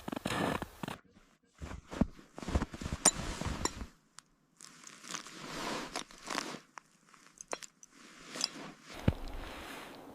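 Irregular crunching and rustling in short bursts, broken by a few sharp clicks.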